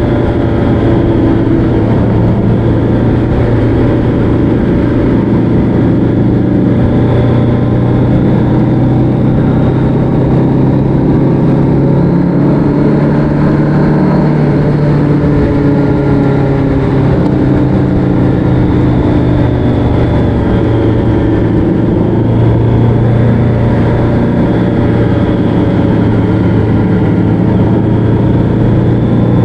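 Vehicle engine running steadily at cruising speed, its pitch drifting gently up and down.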